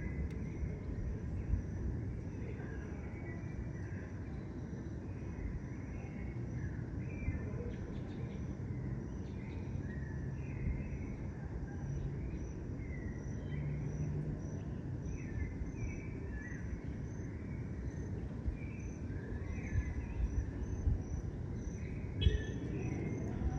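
Outdoor dusk ambience: small birds chirping in short repeated calls, over a steady high insect trill that pulses evenly, with a low continuous rumble underneath.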